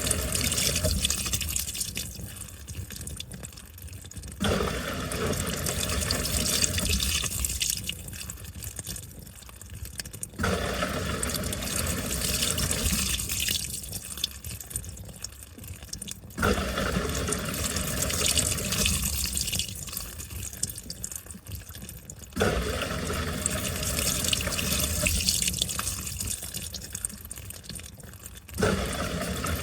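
Washing machine in its wash cycle: water sloshing and splashing inside the drum as the wash action starts up, runs a few seconds and eases off, repeating about every six seconds.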